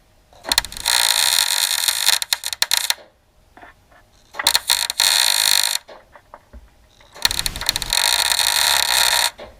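Three bursts of loud hissing, crackling noise from a workshop tool, about two and a half, one and a half and two seconds long, each starting and stopping abruptly.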